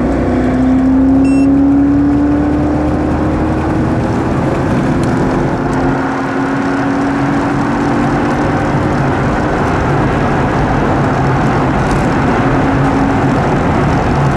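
Mercedes G55 AMG's supercharged 5.5-litre V8 pulling hard at full throttle from about 150 toward 190 km/h, heard inside the cabin. The engine note climbs steadily, dips briefly about six seconds in, then climbs again over loud wind and tyre noise.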